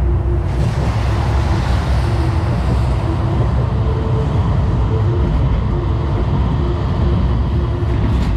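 Steady loud rumble and hiss of city road traffic, with a faint tone coming and going.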